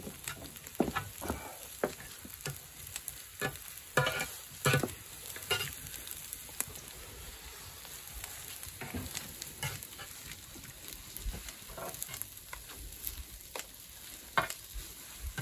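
Fried rice sizzling on an iron griddle plate as it is stirred and turned, with metal utensils scraping and clacking irregularly against the plate.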